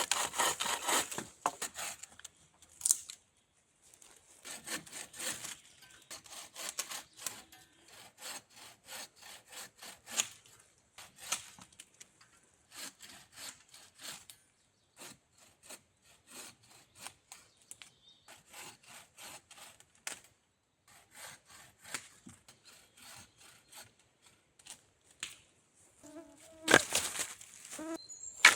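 Bow saw cutting firewood in repeated back-and-forth strokes, with a louder, brief clatter near the end.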